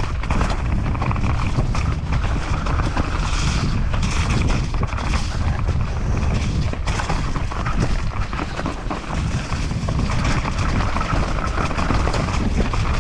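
Mountain bike descending a rough dirt trail: wind buffeting the microphone in a steady low rumble, with constant rattling and clicking from the bike over the bumps.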